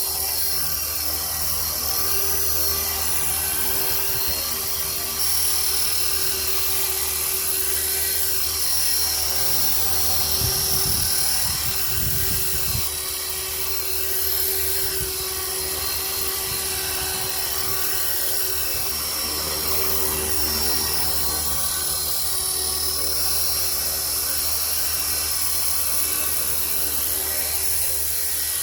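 Electric RC helicopter (Esky Belt CP V2) in flight, its motor and rotors giving a steady high-pitched whine. A brief low rumble comes about ten to thirteen seconds in.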